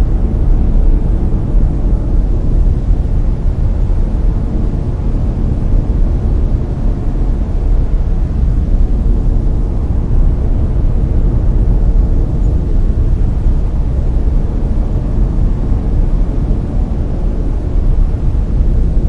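Layered brown noise: a steady, deep hiss, strongest in the low end and fading toward the top, with no change throughout.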